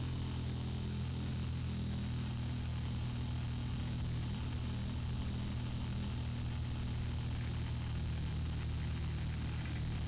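Four-Star 60 R/C airplane's engine running steadily, heard through a small onboard camera's microphone with heavy static hiss.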